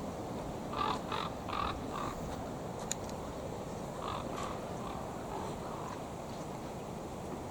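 Crows cawing: a quick run of four short caws about a second in, two more around four seconds, and fainter ones after, over steady wind noise on the microphone.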